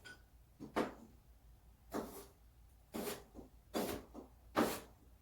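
A freshly whetstone-sharpened kitchen knife cutting through ginger root in five quick strokes about a second apart, each a short slice ending in a knock.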